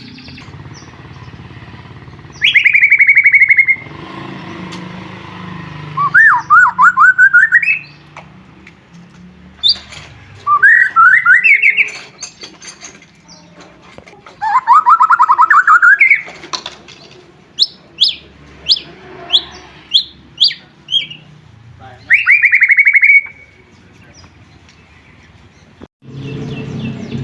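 White-rumped shama singing in loud phrases of rapid trills, several sweeping upward in pitch, then a quick run of short sharp notes, with pauses of a second or two between phrases.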